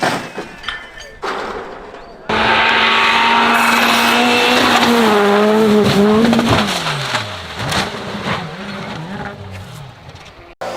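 Car tyres squealing in a long, loud skid that starts abruptly about two seconds in and wavers in pitch. It falls away after about four seconds into a car's engine note rising and falling.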